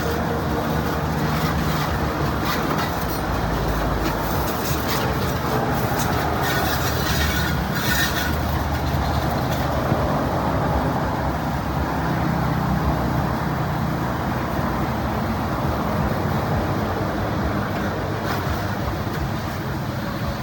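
A motor running steadily, with a low hum under a broad hiss; the hiss grows brighter for a couple of seconds about seven seconds in.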